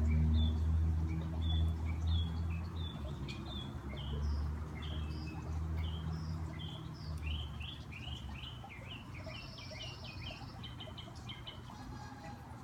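Several backyard songbirds chirping and calling in short, overlapping notes, busiest in quick runs through the middle and latter part, with a brief buzzy call near the end. Under them, a low engine-like hum fades away over the first seven seconds or so.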